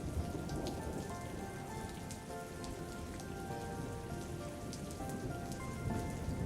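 Steady rain falling, with single drops ticking sharply now and then, over quiet instrumental music with held notes.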